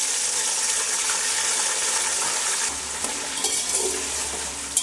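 Potato chunks frying in hot oil with whole spices in an aluminium pot, a steady loud sizzle. In the second half a metal ladle stirs them, adding a few scrapes and clicks against the pot, with a sharp clink near the end.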